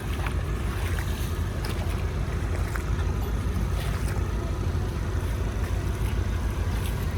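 Heavy diesel machinery, most likely the bulldozer, running with a steady low rumble, with a few faint clanks over it.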